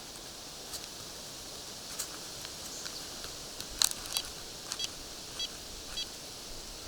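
Forest ambience: a steady faint high hiss with scattered small clicks and a few very short high chirps in the second half.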